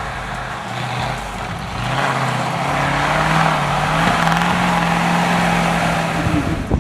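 Vehicle engine running, picking up speed about two seconds in and then holding steady at the higher revs, with a broad rushing noise over it.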